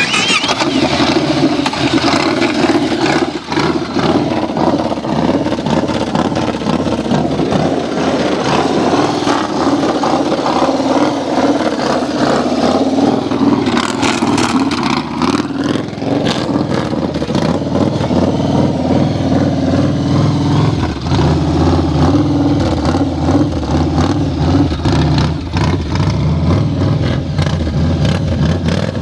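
Yamaha XV1900 cruiser's large air-cooled V-twin running continuously under low-speed riding, its note rising and falling with the throttle and clutch.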